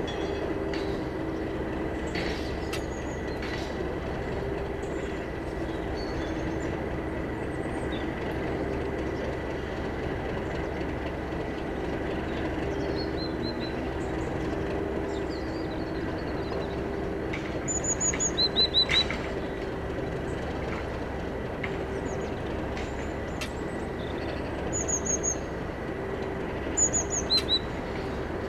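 A steady drone from a train, unchanging throughout, with a pair of low tones in it. Birds chirp over it: a quick run of short high notes about two-thirds of the way in, and two shorter runs near the end.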